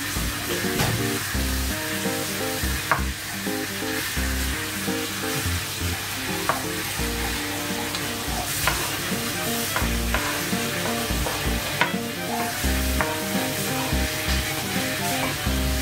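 Onion, tomato and fish sizzling in oil in a sauté pan while a wooden spatula stirs them, scraping the pan with occasional sharp taps. Background music plays throughout.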